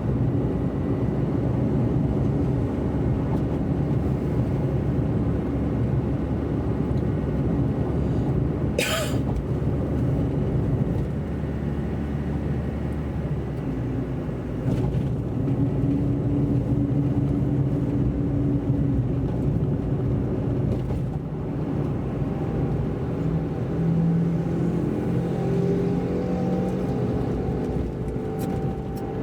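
Car driving on a wet road: steady engine and tyre rumble. A short, sharp noise comes about nine seconds in, and the engine note rises near the end as the car accelerates.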